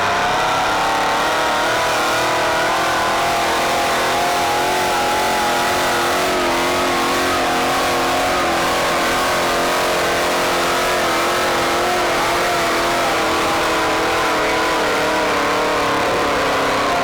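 Pulling tractor's engine running hard at high, steady revs, its pitch wavering slightly throughout.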